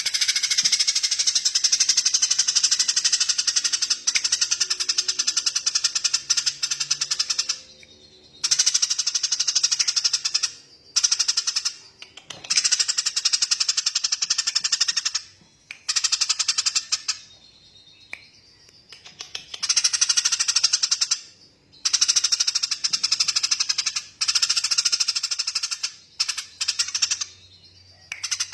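A small songbird's very rapid, chattering trill, delivered in long bursts of several seconds each with short pauses between them.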